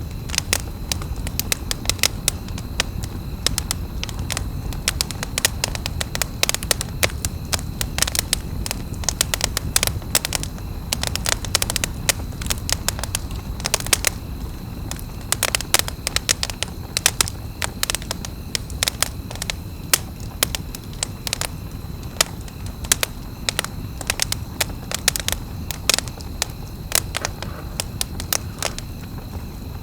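Wood campfire crackling: irregular sharp pops and snaps, several a second, over a low steady noise of the burning fire.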